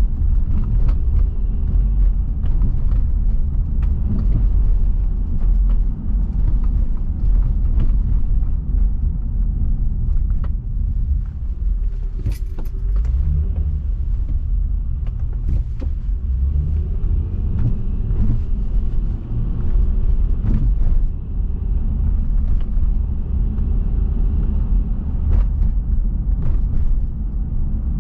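Car driving along a street, a steady low road and engine rumble with scattered small clicks and knocks.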